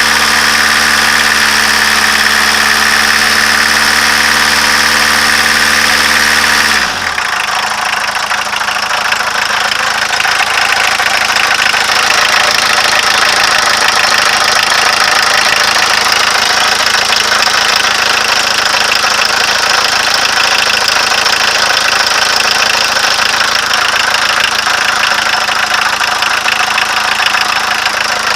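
1.6-litre diesel engine held at raised revs, dropping back to idle about seven seconds in and running on with a knock. The knock is the fault the engine is being recorded for.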